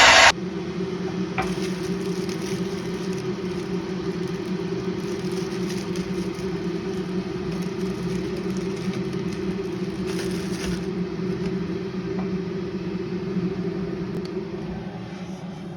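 A hair dryer's loud blowing cuts off abruptly just at the start. Then a steady low motor hum with a second tone an octave above runs on and fades out near the end.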